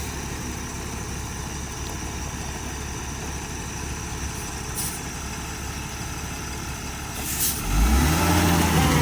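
Truck engine running steadily, with a short hiss about seven seconds in; right after it the engine gets louder and deeper as the truck pulls through.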